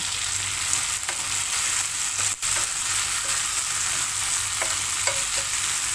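Chopped tomato, onion and garlic sizzling in hot oil in a nonstick pan while a wooden spatula stirs and scrapes through them. A steady sizzle that drops out for an instant a little over two seconds in.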